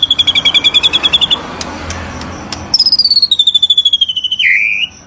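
Songbird calling in rapid chains of sharp, high repeated notes, about ten a second: a fast run for the first second and a half, then after a short break another quick run that falls slowly in pitch and ends in a lower downward slur.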